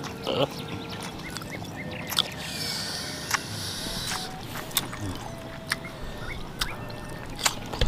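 Close-up eating sounds: chewing and lip smacking, with sharp mouth clicks at irregular moments.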